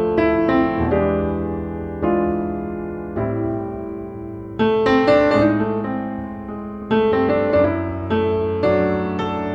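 Background piano music: chords and notes struck every second or so, each ringing and fading before the next.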